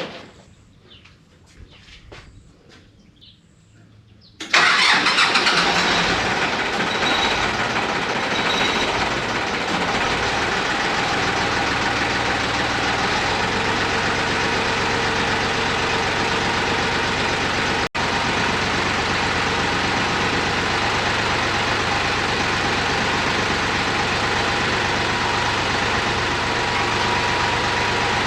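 Ford 1710 tractor's three-cylinder diesel engine starting about four and a half seconds in, then running steadily.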